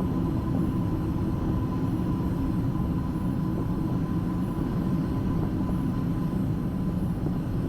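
Steady cockpit rumble of a Boeing 757-200 freighter taxiing with its engines at idle, with a faint steady whine over it.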